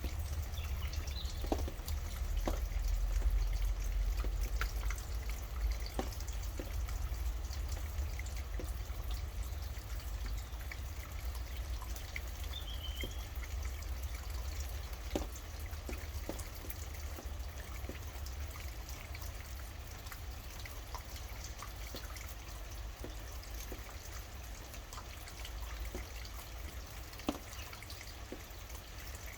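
Rain dripping, with scattered individual drops tapping irregularly over a steady low rumble. A faint short bird call comes about halfway through.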